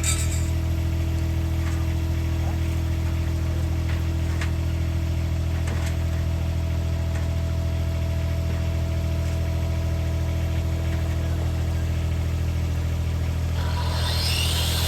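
An engine running steadily at idle, with a few faint clicks. A louder, hissing noise joins near the end.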